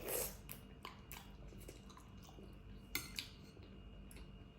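Eating utensils clicking and tapping against a dish several times, with two sharper clicks about three seconds in. A short burst of noise comes right at the start.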